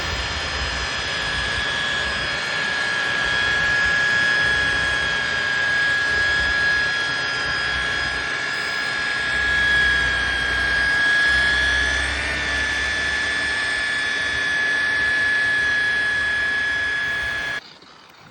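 Electric polisher running steadily with a high whine while compounding with a heavy-cut pad on an oxidised boat hull. The pitch sags slightly for a few seconds midway, and the machine stops abruptly near the end.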